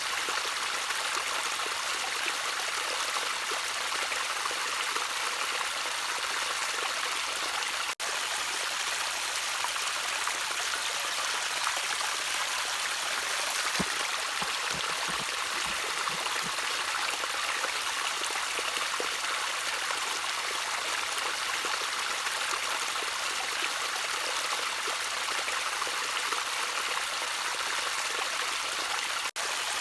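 Gently trickling water running steadily, an even rush with a few low gurgles around the middle. The sound drops out for an instant twice.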